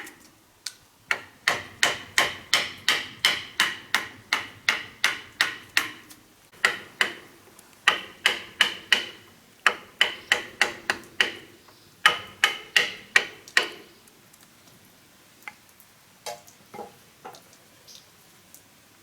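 Hammer driving nails into wood: steady runs of ringing strikes, about three a second, broken by short pauses, then a few lighter taps near the end.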